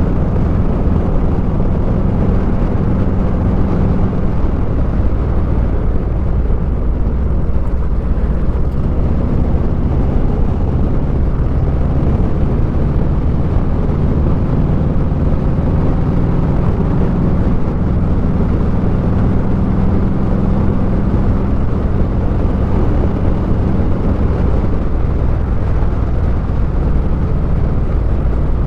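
Harley-Davidson V-twin motorcycle engine running steadily at cruising speed, with a dense rush of wind and road noise over it.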